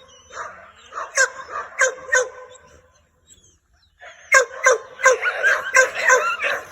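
American Pit Bull Terriers barking in a kennel yard, repeated barks at first, then a brief lull about three seconds in, followed by many dogs barking at once in dense, overlapping barks.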